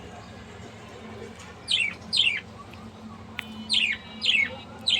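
Bird calling: five short, sharp chirps, each sliding quickly down in pitch, given mostly in pairs from about two seconds in.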